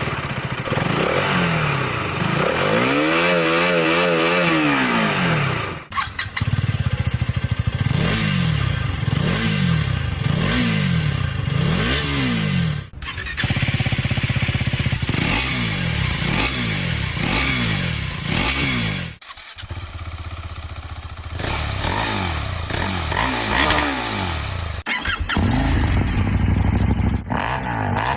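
KTM Duke motorcycle engine revved repeatedly through its exhaust, each blip rising and falling in pitch, some long and some about a second apart. The sound breaks off abruptly several times, as separate takes are joined.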